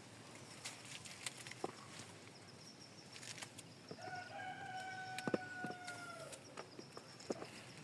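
A rooster crowing once: a single long, held call of about two and a half seconds, starting about four seconds in. Scattered light clicks and knocks run under it.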